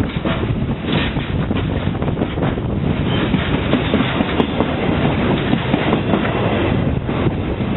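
Freight train rolling past at speed, its wheels clacking over the rail joints above a steady, loud rumble.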